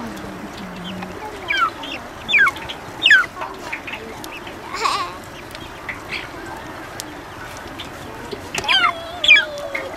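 Birds calling: short, sharply falling calls, three about a second apart, one more a little later and a quick cluster near the end, over a steady hiss.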